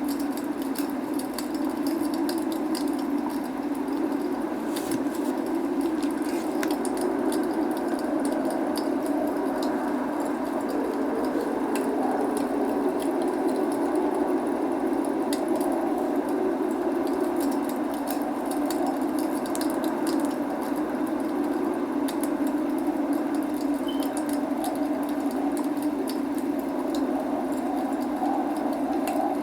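Log fire crackling, with frequent small sharp pops and snaps over a steady rushing noise of rain.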